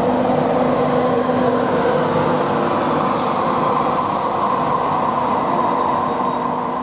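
A train running past, a steady loud rumble carrying a few steady tones and a thin high whine, with two short hisses about three and four seconds in; the sound eases off near the end.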